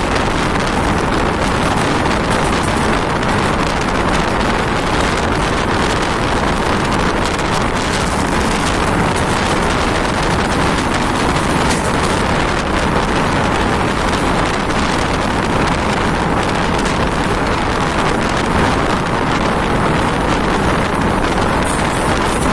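Mumbai suburban local train running at speed: a steady, loud rush of wheel and track noise mixed with wind, and wind buffeting the phone's microphone.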